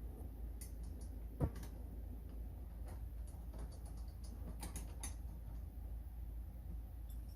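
Scattered small clicks and light knocks of hand tools and plastic parts being handled while screwing the motor gearbox onto a ride-on toy car, with one sharper knock about a second and a half in.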